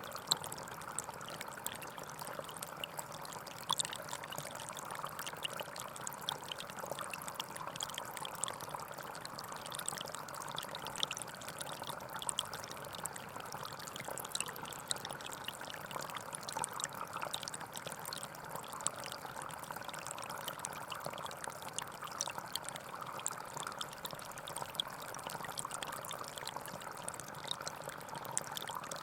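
Gentle forest stream flowing steadily: an even rush of water with many small, quick splashes and trickles over it.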